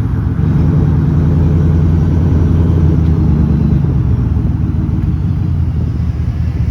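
Engine running loud through a muffler-deleted exhaust, a deep steady rumble that swells about half a second in and eases a little after about four seconds.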